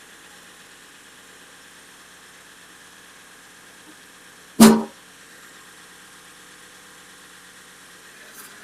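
Compact tractor engine running steadily at low revs, with one short, loud bang about halfway through.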